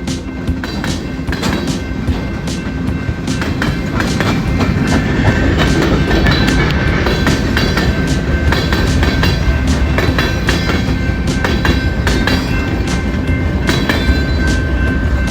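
Train rolling past a grade crossing, its wheels clattering over the rail joints with a continuous rumble. The clatter grows louder about four seconds in, and a steady high tone runs under it from about six seconds in.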